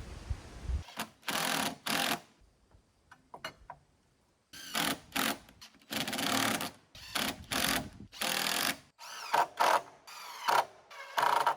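Cordless power driver running screws into the deck framing in about a dozen short bursts, each under a second, with a few faint clicks in the pauses between them.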